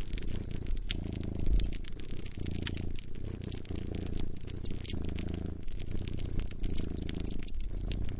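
A cat purring close up, a low rumble that pulses with its breathing about once a second, over a wood fire crackling with frequent sharp pops and snaps.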